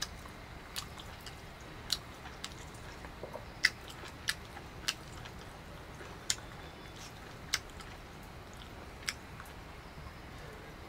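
A person chewing food by mouth: sharp, irregular clicks about once a second over steady background noise.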